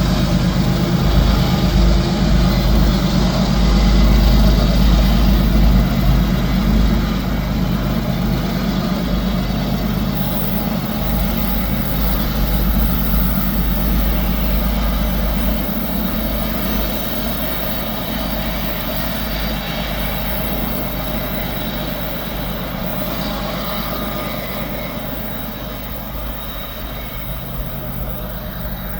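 Diesel-electric freight locomotive working hard under heavy load on an upgrade: a deep engine rumble over the roll of rail cars, fading gradually as the train moves away.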